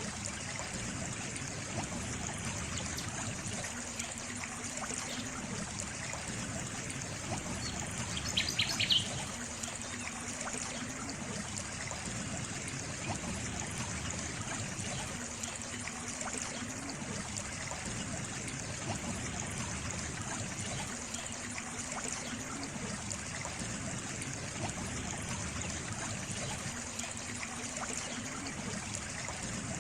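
Water trickling steadily, with a short burst of several quick bird chirps about eight seconds in.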